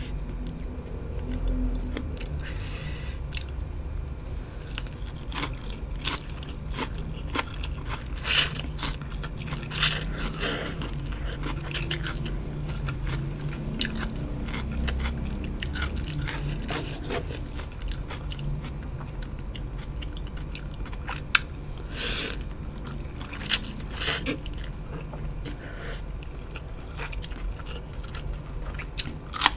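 Close-miked chewing and crunching of khanom jeen rice noodles with raw vegetables. There are sharp, loud crunches about eight and ten seconds in, and a few more after twenty seconds.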